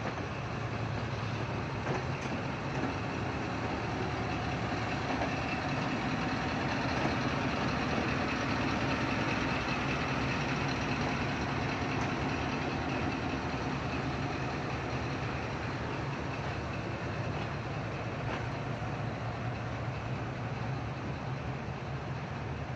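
Diesel-electric engine of a Pakistan Railways ZCU-20 locomotive running steadily with a deep hum. It grows slightly louder toward the middle and eases off near the end.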